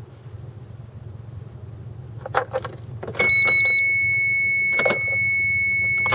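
Keys jingle with a few sharp clicks. About three seconds in, a steady, high-pitched electronic tone starts and holds, over a low steady hum.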